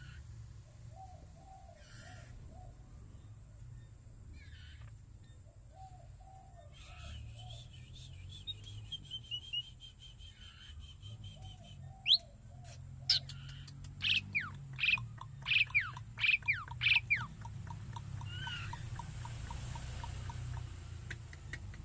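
Several birds calling: a soft low warbling phrase repeated three times, then about halfway through a run of loud, sharp chirps and quickly falling whistles for about five seconds. A steady low rumble lies underneath.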